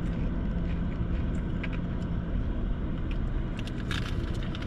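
Steady low rumble of an idling vehicle engine with a faint hum, plus a few small clicks and a brief rustle about four seconds in.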